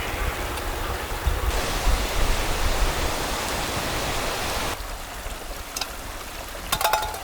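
Steady rushing of running water from a mountain stream. The noise grows louder and hissier for about three seconds, then drops back. A few light clicks and a short clink come near the end.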